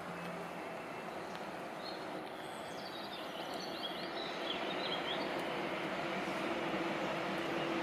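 Electric locomotive hauling a container freight train approaching, a steady rumble that grows slowly louder, with a faint hum coming in during the second half. Birds chirp briefly around the middle.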